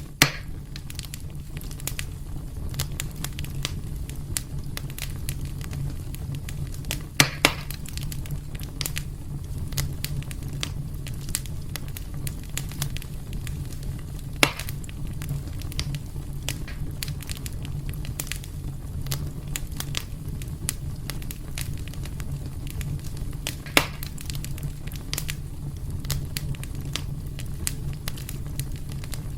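Wood fire burning in a fireplace: a steady low rumble of flame under constant fine crackling, with a few louder sharp pops, about two seconds in, around 7 and 14 seconds, and near 24 seconds.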